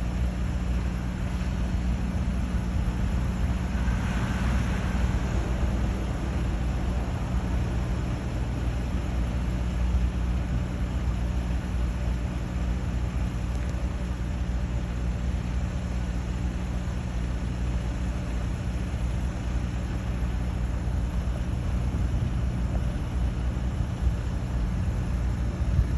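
Vehicle engine running with a steady low drone and a haze of background noise, even throughout.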